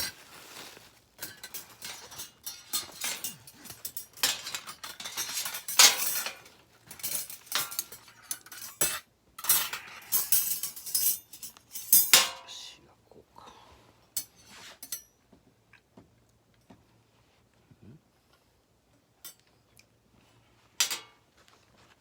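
Metal parts of a folding stainless steel fire pit clinking and clattering as its legs are fitted together, in a dense run of knocks for the first dozen seconds, then a few scattered clinks and one more knock near the end.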